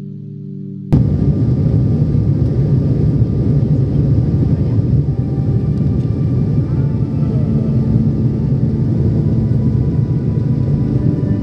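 Loud, steady engine drone starting abruptly about a second in, after a short stretch of music.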